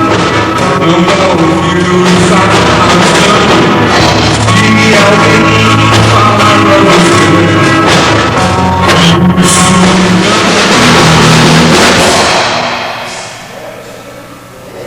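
A rock band playing loud and live through amplifiers during a soundcheck, with a drum kit and electric guitars. The playing dies down near the end.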